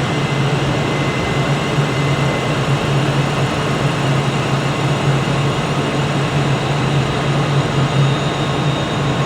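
Steady low drone of trains in a railway station, a constant engine-like hum that does not change throughout.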